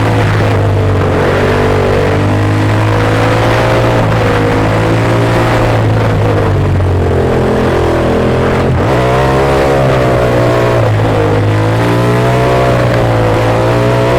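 Ducati Monster S2R's L-twin engine running under way, its pitch drifting gently up and down with the throttle, over a steady rush of wind and road noise.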